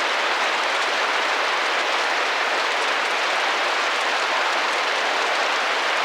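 Steady rain drumming gently against a glass window, a constant even hiss of many small drop impacts.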